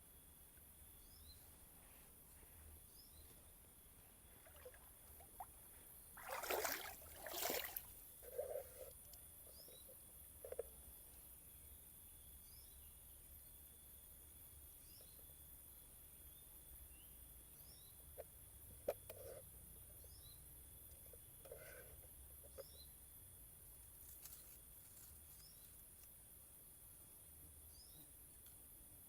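Faint outdoor ambience: a steady high-pitched insect chorus with scattered short chirps, and two brief rustling noises about six and seven seconds in.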